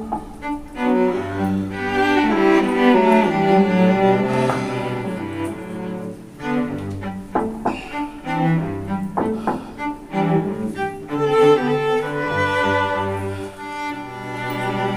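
Music on bowed string instruments: sustained notes over a low bass line that moves every second or so.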